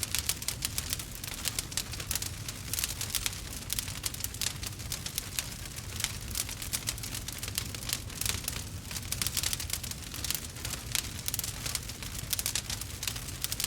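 Wood fire burning with dense, irregular crackles and small pops over a low steady rumble of the flames.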